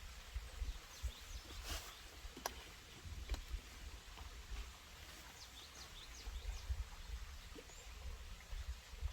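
Wild birds chirping in mountain woodland, many short high calls scattered through, with a few sharp clicks and a low uneven rumble underneath.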